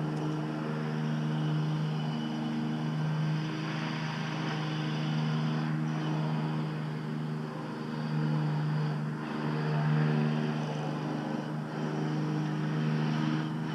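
A steady, even-pitched machine drone that holds the same pitch throughout, with a faint hiss above it.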